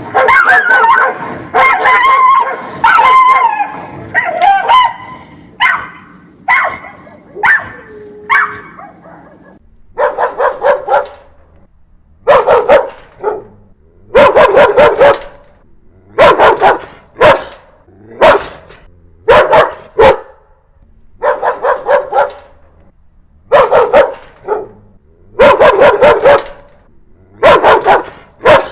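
Dogs barking aggressively. The first few seconds are dense and overlapping; after that come short volleys of two to four barks every couple of seconds, with brief pauses between them.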